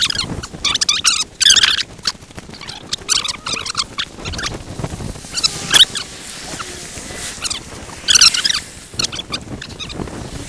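Footsteps crunching and squeaking in cold snow, a short crunchy squeak with each step at an uneven pace.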